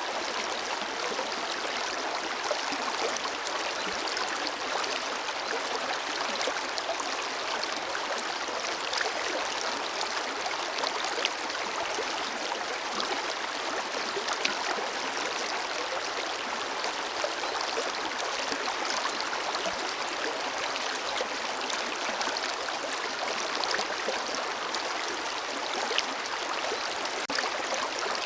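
Forest river or stream flowing steadily: an even rushing hiss of running water with small splashes and gurgles scattered through it.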